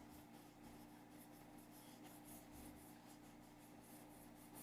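Faint, soft swishes of a watercolour brush stroking across paper, a stroke or two every second, over a low steady hum.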